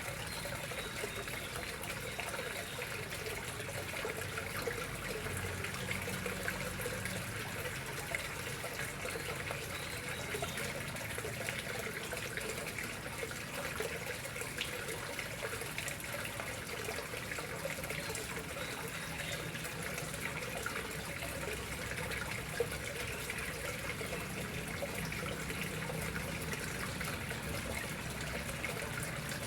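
Water flowing and trickling steadily into a koi pond, a continuous splashing, bubbling rush.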